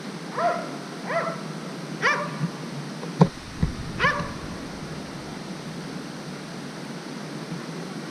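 A dog barks four times in about four seconds, short pitched barks. A sharp knock a little past three seconds in is louder than the barks. A steady hiss runs underneath.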